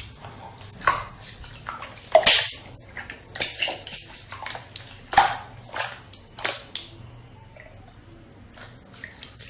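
Slime being squished and pressed, an irregular run of wet squelches and pops, loudest about two and five seconds in, going quieter near the end.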